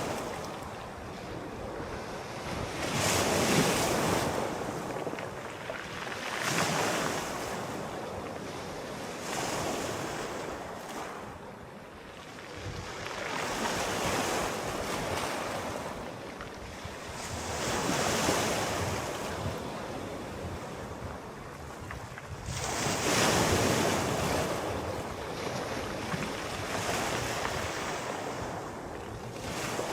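Sea waves washing in and breaking on the shore one after another. Each surge swells into a rushing hiss and ebbs away every few seconds.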